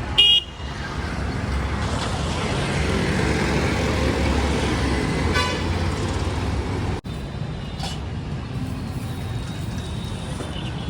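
Road traffic rumbling steadily, with a short, loud vehicle horn toot just after the start and a fainter horn toot about halfway through.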